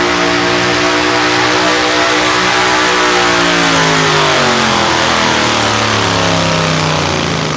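Sport stock pulling tractor's diesel engine running loud and hard at high revs during a pull; about three seconds in, the revs fall away as the engine lugs down under the sled's growing load, then pick up slightly near the end.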